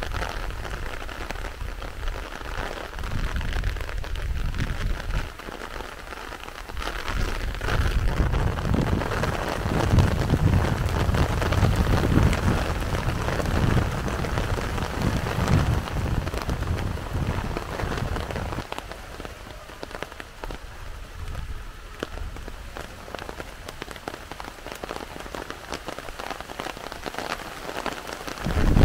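Heavy rain falling steadily, the drops hitting surfaces in a dense hiss. A low rumble swells for several seconds, from about a quarter of the way in to past the middle.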